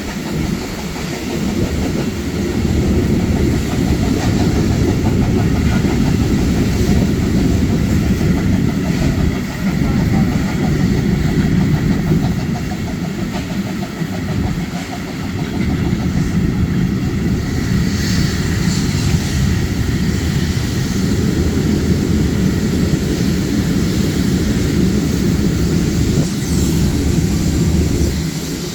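Train running along the track: a steady low rumble.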